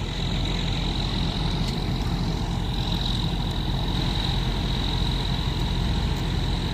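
Vehicle engines idling: a steady low rumble with a faint, constant high whine above it.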